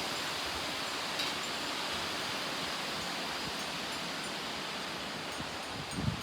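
Strong thunderstorm wind blowing through trees: a steady, even rushing hiss of tossing leaves.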